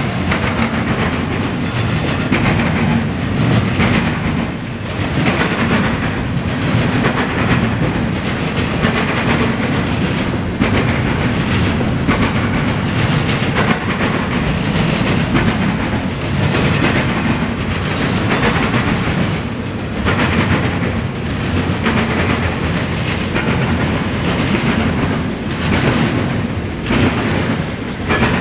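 CSX intermodal freight train passing close by, its steel wheels clacking in a continuing rhythm over rail joints under a steady rumble of rolling cars.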